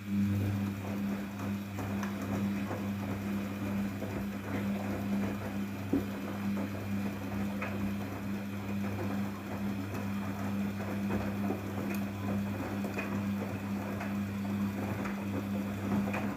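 Daewoo DWD-FT1013 washing machine at work in a cotton 40°C wash: a steady low hum over a rushing, crackling noise with small clicks, typical of the water inlet valve open and water pouring in as the machine fills. It starts abruptly and cuts off suddenly at the end.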